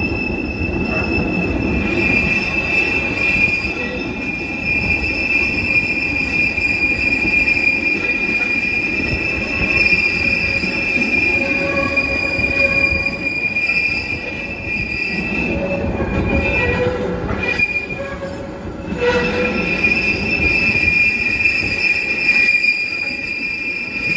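Narrow-gauge train's wheels squealing against the rails, heard from aboard: a steady high-pitched squeal over the rumble of the running cars. The squeal breaks off briefly about three-quarters of the way through, then comes back.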